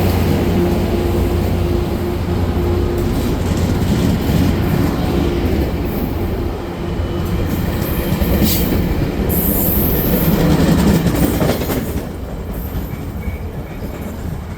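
Tri-Rail commuter train with a Brookville BL36 diesel locomotive pulling out of the station. A low engine drone and the cars rolling past, with brief high wheel squeals near the middle; the sound drops off after about twelve seconds.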